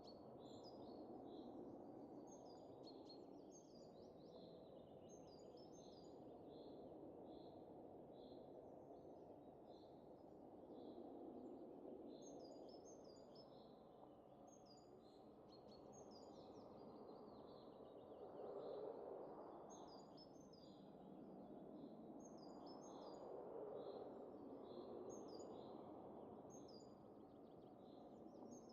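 Soft winter wind, swelling in two gusts about two-thirds of the way through, with small birds chirping repeatedly over it.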